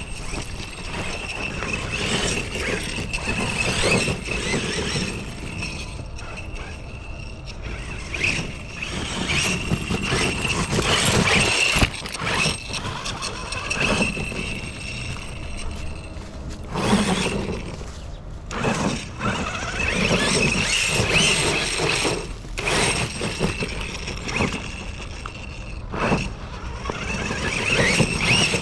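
Large homemade RC monster truck's brushless electric motor and drivetrain whining as it drives, the high whine rising and falling with throttle and dropping out briefly now and then.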